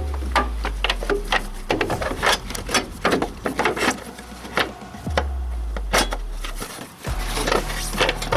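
Irregular clicks, knocks and scrapes of hand tools working on metal parts, over a low hum that falls in pitch and stops, twice.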